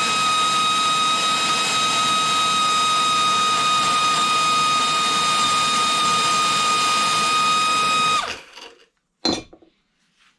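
Pneumatic angle grinder running flat out with no load, a steady high whine over air hiss, in a run-to-failure test. It cuts off suddenly just after eight seconds as something on the grinder blows, then a single short clack about a second later.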